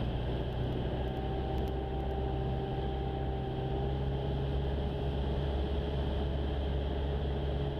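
Jabiru light aircraft's engine and propeller droning steadily from inside the cockpit on final approach, with a faint steady whine over the low drone.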